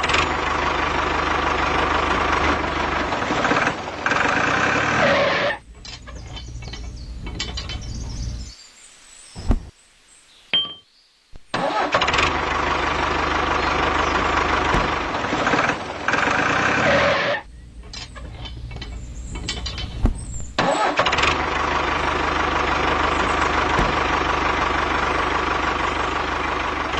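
Motor running in three long loud stretches, each dropping to a lower, quieter running after five or six seconds, with brief cut-outs between them.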